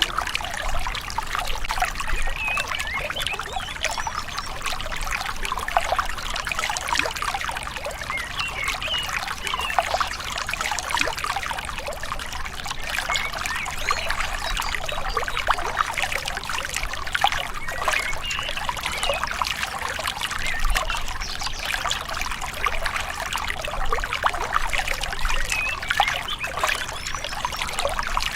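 Small river flowing gently, with water trickling and splashing steadily.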